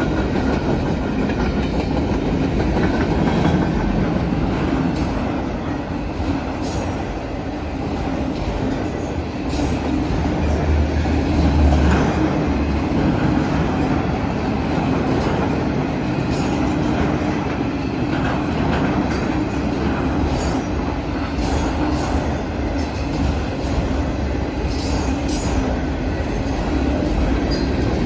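Norfolk Southern manifest freight train's cars rolling past: a steady low rumble of wheels on rail with scattered sharp clicks and clanks throughout.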